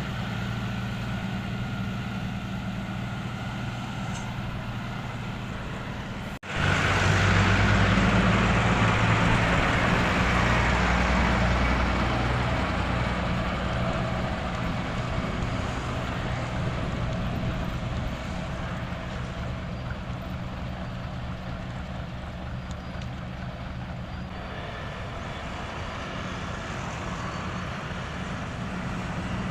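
Diesel engines of heavy road-construction machinery running steadily. About six seconds in the sound breaks off sharply and a louder machine takes over, then slowly grows quieter.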